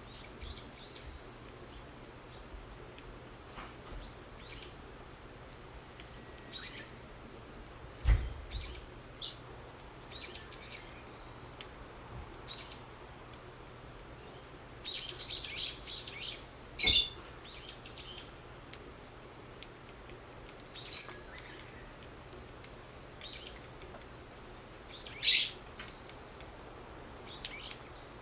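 Birds chirping in short calls every few seconds, a cluster of them about halfway through. There is a single low thump about eight seconds in.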